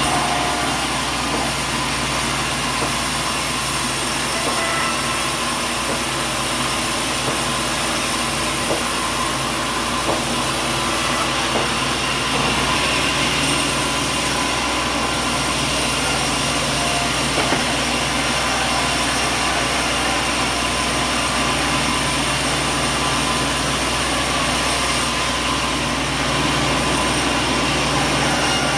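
Sawmill machinery running steadily: a constant mechanical hum and hiss with several steady tones underneath, and no distinct cuts or impacts.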